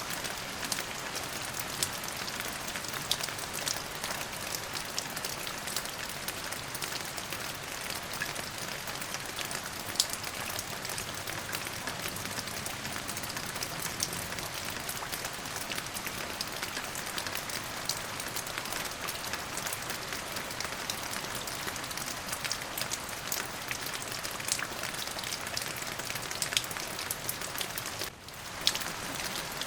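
Steady rain falling: a dense, even hiss with many individual drops ticking through it. The sound dips briefly near the end.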